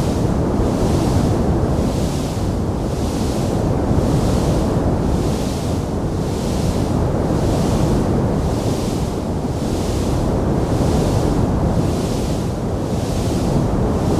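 Steady rumbling roar of a wood fire in a fireplace, with a hiss that swells and fades evenly about once a second and no distinct crackling pops.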